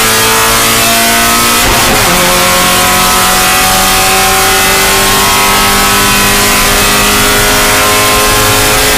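Spec Miata race car's four-cylinder engine under hard acceleration. The revs drop sharply at an upshift about two seconds in, then climb steadily again.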